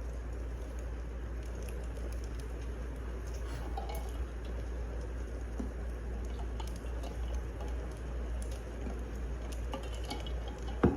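Wood fire crackling: a steady low rumble and hiss with scattered small pops and ticks, and one louder snap right at the end.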